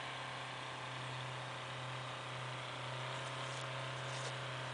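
A vehicle engine idling steadily: a low, even drone with hiss over it.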